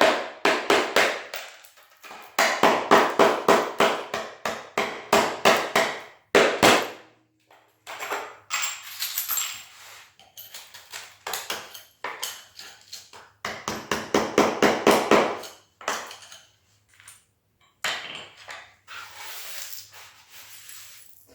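Hammer driving an old chisel under a cracked ceramic floor tile that is stuck down hard, chipping it up in loud, fast runs of strikes, about five a second. Quieter scrapes and knocks fall between the runs.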